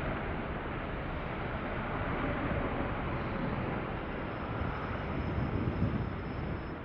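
Boeing 777-300ER's GE90 jet engines during landing: a steady, broad rush of jet noise, with a faint high whine coming in about halfway through.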